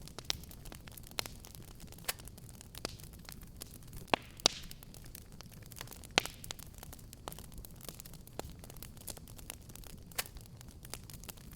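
Fireplace fire crackling: irregular sharp pops and snaps over a low steady rumble, with the loudest pops about four seconds in and again about six seconds in.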